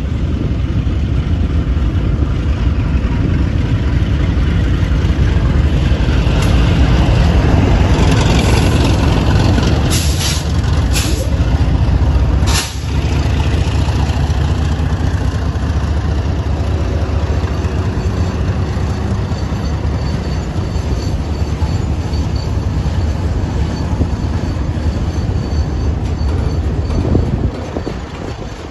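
Diesel freight train running close by with a heavy, steady low rumble. There are a few brief high-pitched sounds about ten to twelve seconds in.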